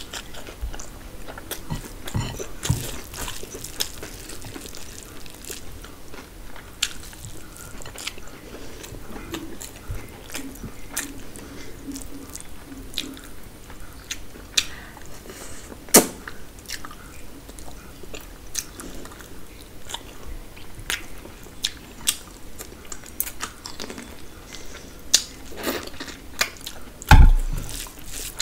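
Close-miked chewing of mutton curry and biryani eaten by hand, with many small wet clicks and smacks throughout. A sharp click comes about halfway through, and a loud low thump near the end.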